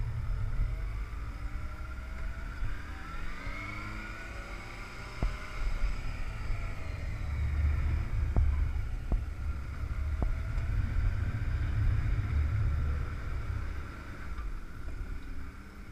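Motorcycle engine running, its pitch rising as it revs up and then easing off, over a steady rumble of wind on the microphone, with a few sharp clicks.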